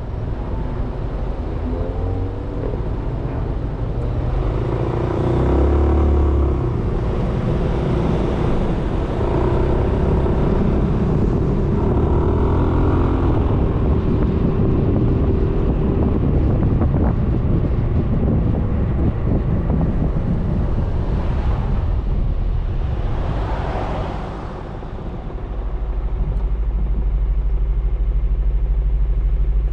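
Suzuki Burgman 400 maxi-scooter's single-cylinder engine running while riding in traffic, mixed with wind and road rumble on the helmet-level camera mount. The level dips briefly about 25 seconds in, then comes back up.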